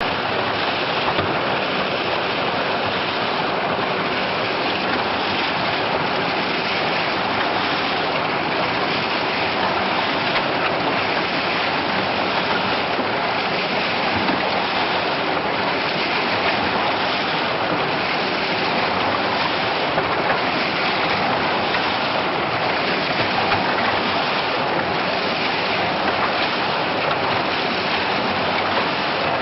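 JSS twin-shaft compulsory concrete mixer running, its two paddle shafts churning a batch of wet concrete: a steady, even noise with no let-up.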